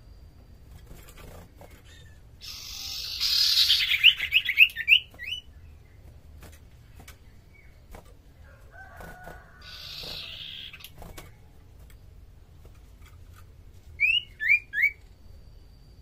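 A caged common iora (sirtu/cipoh) calling. About three seconds in comes a harsh, hissing chatter that breaks into a quick run of short notes. Around ten seconds there is a shorter harsh burst, and near the end three loud short clear notes follow in quick succession, with faint ticks scattered between the calls.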